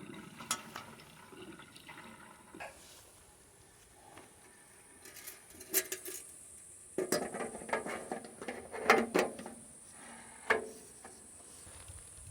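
Gasoline being poured from a can into the sawmill engine's fuel tank, with clicks and knocks from handling the can and filler cap; the pouring and handling are busiest from about seven seconds in.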